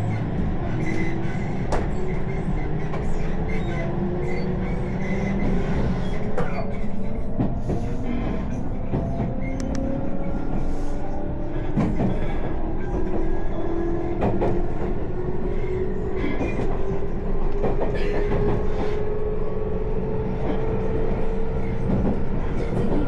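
Train running on the rails, heard from inside the carriage: a steady low rumble of wheels with scattered clicks from the track, and a thin whine that slowly rises in pitch as the train gathers speed.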